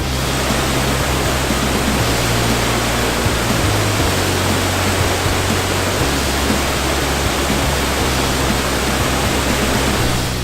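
A large waterfall running: a loud, steady rush of falling water. Background music's low bass notes carry on beneath it, changing every second or two.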